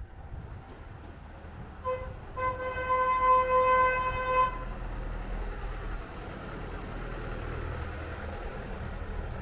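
Vehicle horn: a short toot about two seconds in, then a held honk of about two seconds. A low vehicle rumble runs underneath.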